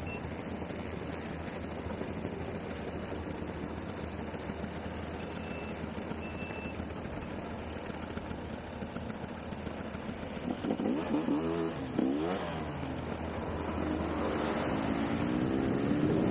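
Dirt bike engine running at low speed, revving up and down about two-thirds of the way through and climbing in pitch again near the end.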